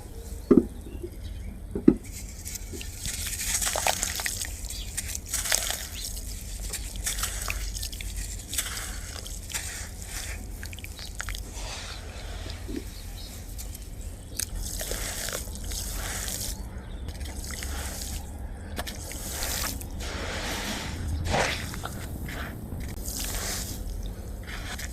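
Crumbled clumps of dry black sand dropping into water: irregular drips, plops and splashes, with two sharp loud knocks about half a second and two seconds in.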